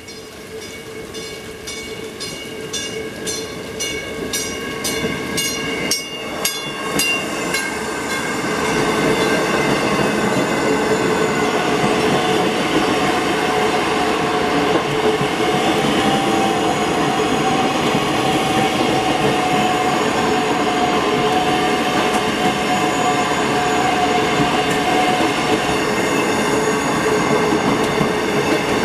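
South Shore Line electric passenger train street running, growing louder over the first eight seconds as it approaches, then running loud and steady with whining tones over the rumble of the cars. Early on a bell rings about twice a second and stops about eight seconds in.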